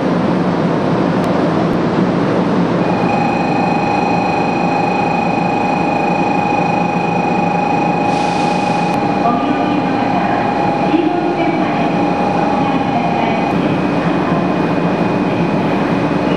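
500 series Shinkansen standing at a station platform, with a steady low hum and hiss from the train and platform. About three seconds in, a steady electronic tone of several pitches starts ringing and holds for about ten seconds. Near the middle there is a brief sharp hiss.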